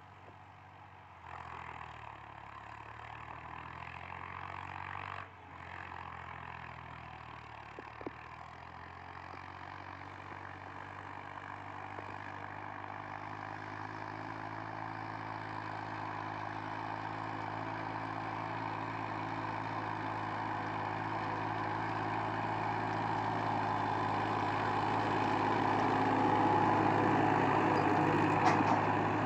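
Massey Ferguson 245 tractor's diesel engine running at a steady pace, growing steadily louder over the whole stretch.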